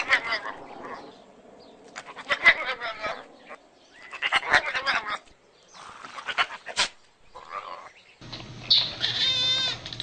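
Cat meowing in a run of short, separate calls, then a long wavering, warbling yowl near the end over a steady low hum.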